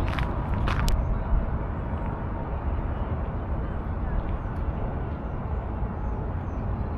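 Footsteps on a paved path for about the first second, then a steady low outdoor rumble with faint, short bird chirps scattered over it.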